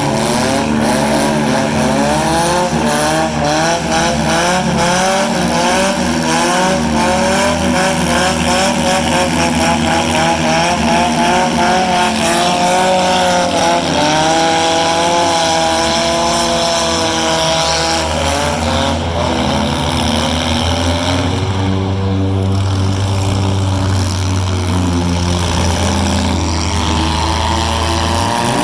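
Several four-cylinder demolition derby car engines revving up and down, over and over, loud and overlapping throughout.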